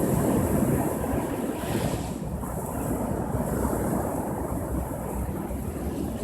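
Ocean surf: waves breaking and washing up the shore, a continuous rushing wash that eases off after about two seconds.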